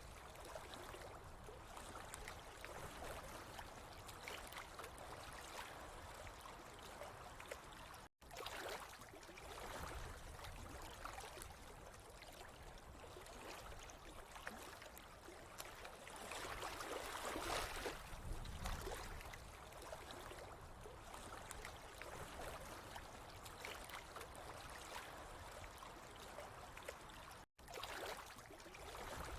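Running water trickling and gurgling steadily, swelling a little in the middle, with two brief total dropouts to silence, one about 8 seconds in and one near the end.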